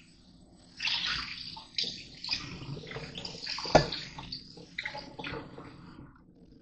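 Tap water running and splashing in a sink in uneven gushes, with a sharp knock a little under four seconds in.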